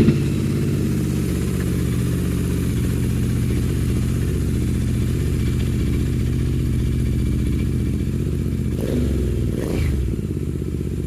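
Royal Enfield Interceptor 650's parallel-twin engine idling just after starting, through a custom DugDug exhaust with its dB killers removed: a steady, deep, bass-heavy idle. About nine and ten seconds in there are two short throttle blips.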